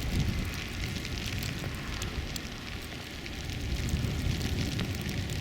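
Wind buffeting the microphone in a snowstorm: a low rumble, with scattered crackle over it.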